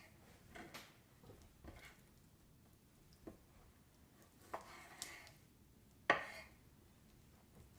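Knife cutting raw chicken thigh on a chopping board: a few irregularly spaced knocks of the blade against the board, the loudest about six seconds in.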